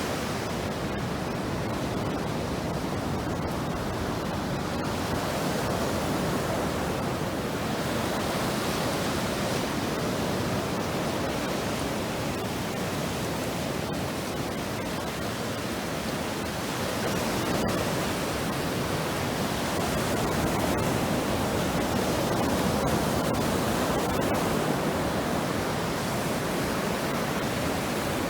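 Steady rushing noise of ocean surf and wind along the shore, swelling gently at times.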